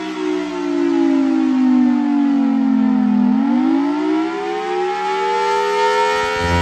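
Large outdoor warning siren (tornado siren) winding down in pitch, then winding back up from just past three seconds in, with several tones sounding together.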